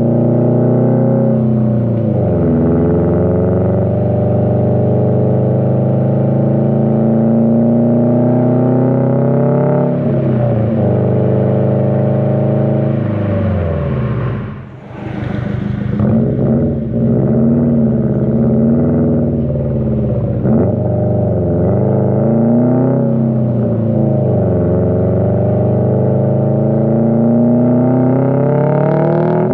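The turbocharged flat-four engine of a 2020 Subaru WRX STI, running through an AWE Track exhaust while the car is driven through the gears. The pitch climbs and drops back at each gear change. About halfway through it falls away briefly as the throttle is lifted, then comes back with a series of quick rises and falls in pitch.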